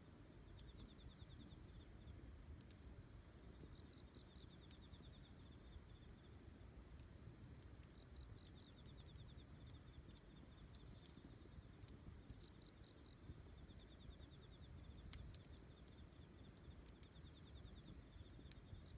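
Faint campfire: burning wood crackling with scattered sharp pops over a low rumble. A high, pulsed chirping trill comes and goes every few seconds.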